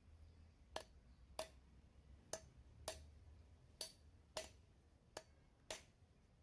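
Faint sharp taps, about eight of them, coming roughly in pairs half a second apart, over near silence.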